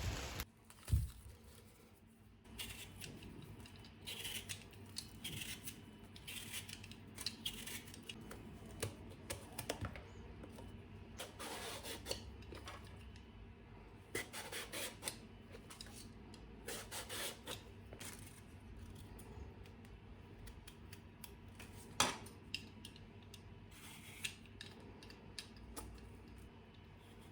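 Faint small handling sounds: scattered light taps, clinks and rustles of objects being picked up and set down, with one sharper knock about 22 seconds in.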